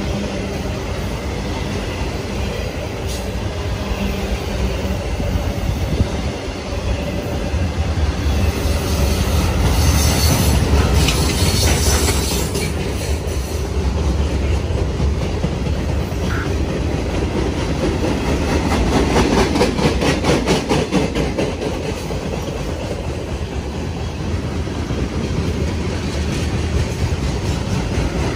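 Train rolling past, a continuous low rumble with its wheels clicking rapidly over the rail joints through the second half.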